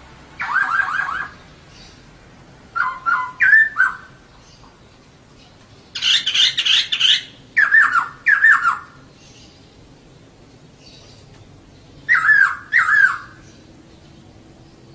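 Female laughingthrush (poksay) calling in five short bursts of quick, hooked chattering notes, with pauses of a second or more between bursts.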